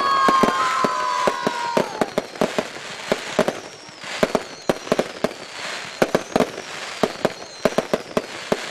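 Fireworks going off: several whistling tones that fade out about two seconds in, over an irregular run of sharp bangs and crackles that continues throughout.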